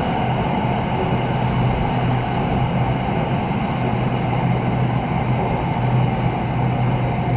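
Running noise heard from inside an SRT Red Line electric commuter train car: a steady rumble of wheels on rail with a constant low hum.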